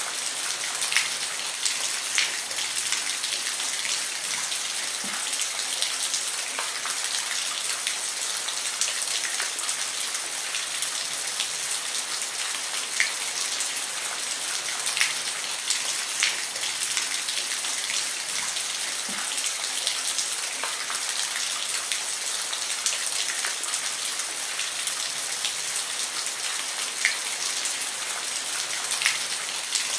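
Steady rain falling on a roof: a dense, even hiss with scattered sharper drop ticks here and there.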